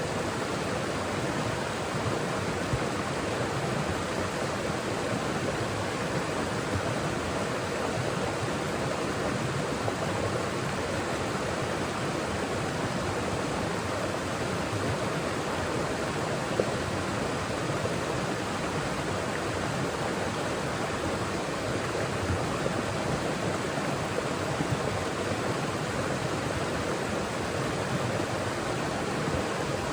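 Forest mountain stream flowing, a steady full rushing of water with a few brief, slightly louder moments.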